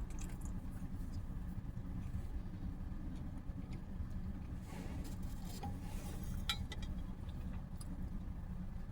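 Eating sounds from a sandwich: small mouth clicks and chewing, the clearest cluster about five to six and a half seconds in, over a steady low background rumble.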